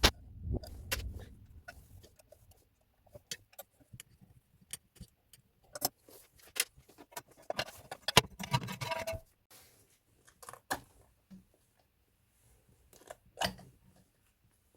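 Metal hand tools and engine parts clinking and rattling during an engine teardown: scattered sharp clicks and clinks, with a dense run of rapid metallic clicking and rattling a little past halfway.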